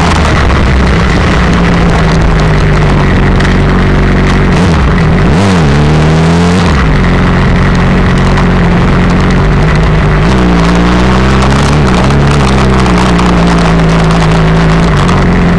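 Sport motorcycle engine running at fairly steady revs, with heavy wind rush over the microphone. Twice the engine note drops and climbs back, about five seconds in and again about ten seconds in, as the throttle comes off and back on.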